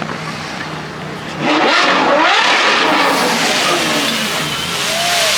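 Ferrari 812 Superfast's V12 with a Gintani exhaust running steadily, then revved hard about a second and a half in, its pitch sweeping up and down, and staying loud afterwards.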